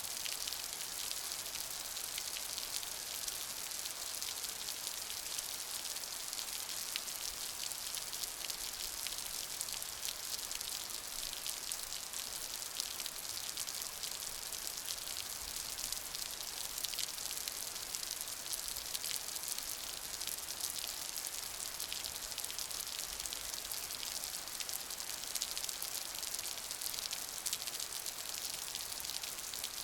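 Steady rain falling, a constant hiss dense with the patter of individual drops.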